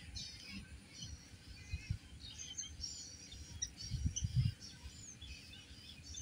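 Several birds chirping and singing, with many short calls and whistles overlapping. A few low thumps on the microphone, the loudest about four seconds in.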